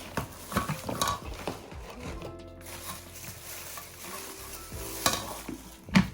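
Hands handling the contents and packaging of a hair-removal wax kit: rustling, crinkling and light clicks, with a sharp knock near the end, over soft background music.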